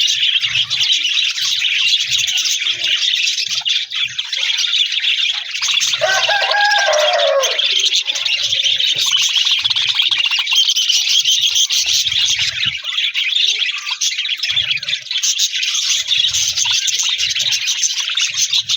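A flock of budgerigars chattering and chirping continuously, a dense, loud, high twittering. About six seconds in, a lower call with a falling pitch stands out for a second or so.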